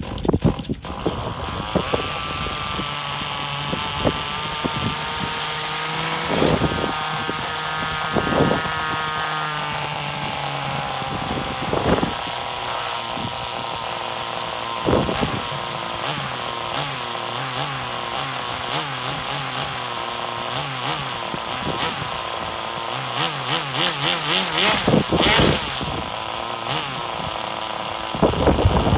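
Small glow-fuel engine of a Kyosho Super Ten FW-03 1/10 nitro RC touring car, just started, settling into a steady high-pitched buzz within the first couple of seconds and running on with scattered clicks and uneven pulsing.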